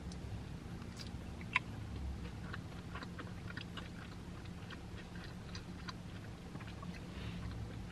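A person chewing a bite of breaded chicken nugget: quiet, scattered soft crunches and mouth clicks, with one sharper click about a second and a half in. The breading gives only a soft crunch.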